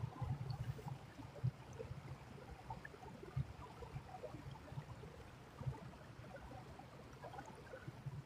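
A creek trickling faintly, with irregular low thumps now and then, the strongest about a second and a half in.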